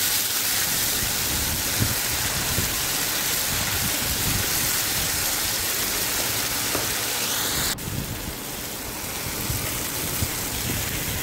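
Chopped tomatoes sizzling and frying in hot oil in a nonstick pan, a steady hiss. About three-quarters of the way through it drops suddenly to a slightly quieter sizzle.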